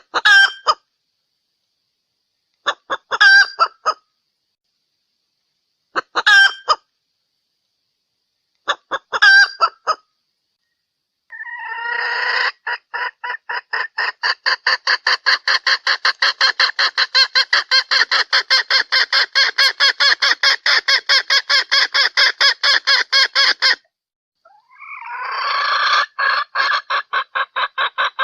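Junglefowl hen calling, the lure call used to attract males: four short calls about three seconds apart, then a long fast run of clucks at about four a second, starting again after a brief break near the end. The dead silence between calls points to a replayed recording.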